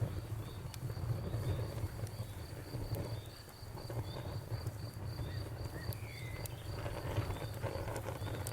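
Wood fire crackling with a steady low rumble and scattered small pops, busier near the end. Over it a cricket chirps in quick, evenly spaced pulses, with an occasional short bird chirp.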